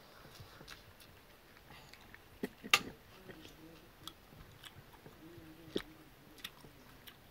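Close-up chewing and wet mouth smacks of people eating biryani rice by hand, with scattered sharp clicks; the loudest smack comes about three seconds in, another near six seconds.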